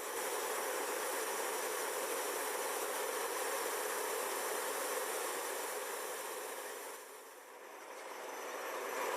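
Steady rushing hiss of the MV-22 Osprey tiltrotor's turbine engines running. It fades down briefly about seven seconds in, then comes back.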